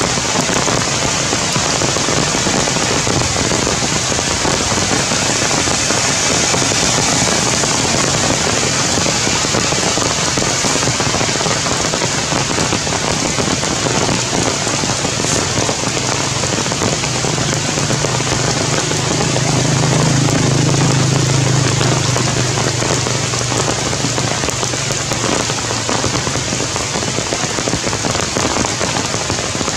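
Heavy rain falling steadily on the leaves of the forest canopy, a dense unbroken hiss. A low rumble swells and fades about two-thirds of the way through.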